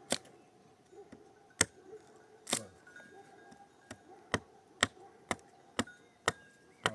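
A series of sharp knocks or strikes, a few spaced out at first, then coming about twice a second in the second half.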